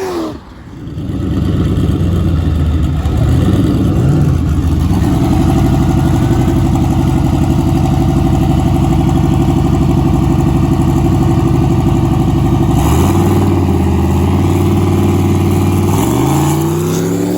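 Car engine running hard at a steady pitch for about twelve seconds, then dropping to a lower pitch, and near the end revving up again with a rising pitch.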